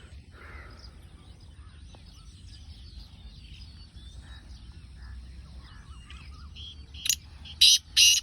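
Faint scattered chirping of small birds, then about seven seconds in a black francolin starts its call: a short note followed by two loud, harsh, grating notes.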